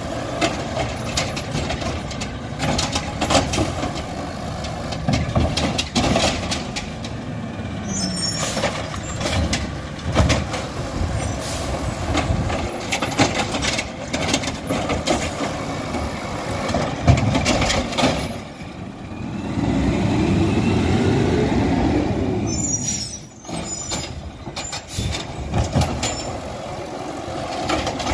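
Garbage truck at work: the diesel engine runs under repeated metallic clanks and knocks. For a few seconds past the middle the engine revs up and settles back down.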